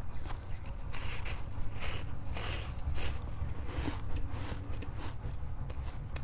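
Freezer frost being crunched and scraped close up, in a run of short crisp bursts and clicks over about two seconds, then a few scattered clicks. A steady low rumble runs underneath.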